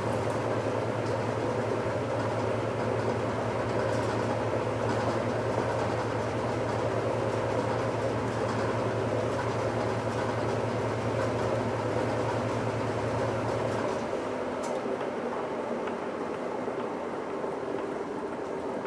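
1969 Westinghouse washing machine in its final spin, a steady mechanical whir over a low motor hum. About 14 seconds in, the hum cuts off and the spinning drum carries on a little quieter as it winds down.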